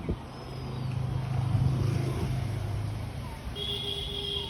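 A motor vehicle passing by: its low engine hum swells about a second and a half in, then fades away. Near the end a high, steady tone sounds for about a second.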